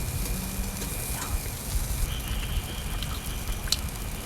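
Steady rain pattering on a camping tarp, with a few light clicks.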